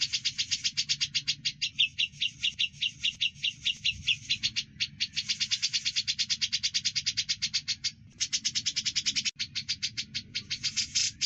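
Fast, even series of sharp bird chirps, about nine a second, from a songbird tutoring recording of grey-cheeked bulbul and Eurasian tree sparrow calls. It breaks off briefly a few times, with a faint low hum underneath.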